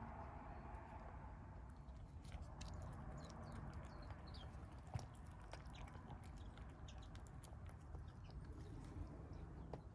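Stray kittens eating, faint chewing with many small irregular clicks over a low steady rumble.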